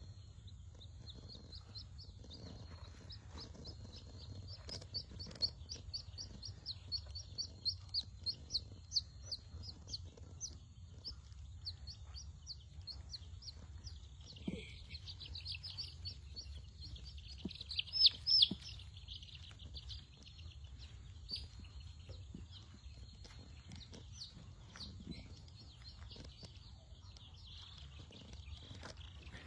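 Brooding chicks peeping: many short, high cheeps several times a second, with a louder flurry a little past halfway, over a steady low hum.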